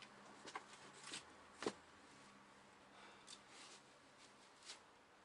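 Near silence with a few faint, sharp clicks scattered through it, over a faint low hum.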